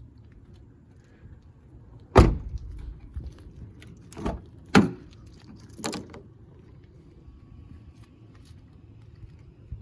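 Knocks and clunks from a car's interior being handled: one heavy thump about two seconds in, then three sharper clicks or knocks spread over the next four seconds.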